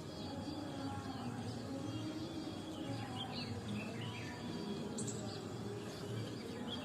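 Birds chirping now and then, short calls scattered through, over a steady low background hum and noise.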